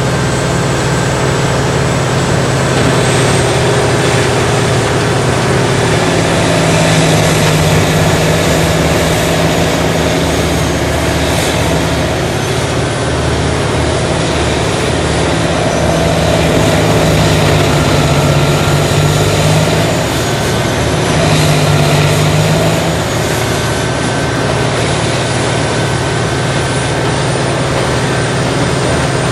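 Morbark 80,000-pound tracked horizontal grinder running loud and continuously as it grinds brush and stumps. Its heavy engine note swells a few times as the machine works harder under load.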